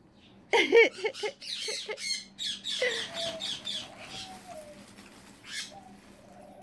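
Pet parrots squawking and chattering in a quick run of harsh calls, followed by a long wavering whistle in the second half.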